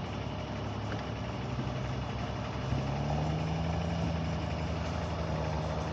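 Vehicle engine idling steadily, its hum stepping up slightly in pitch about three seconds in.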